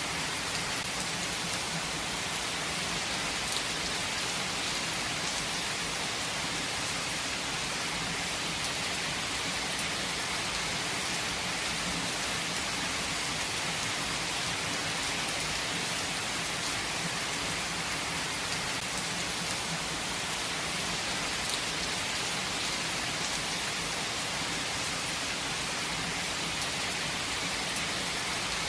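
Steady rain falling and pattering on surfaces, an even hiss with scattered drop ticks and no letup.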